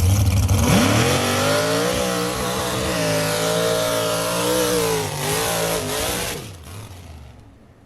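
Modified Chevrolet pickup's engine with a deep idle rumble, then, under a second in, revving sharply up to a high, steady note in a hard acceleration; the pitch wavers, falls about five to six seconds in, and fades out near the end.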